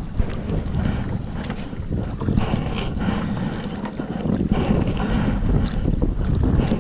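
Wind buffeting the action camera's microphone in a steady low rumble, with small water splashes and drips around a kayak and its paddle.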